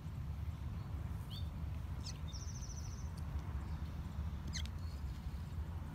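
A few brief high bird chirps and one short rapid trill over a steady low rumble.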